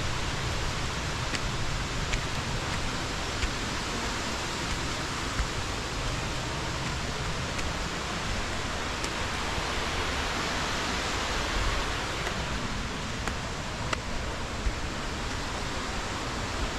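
Small natural waterfall rushing steadily into its pool, with a few faint ticks scattered through.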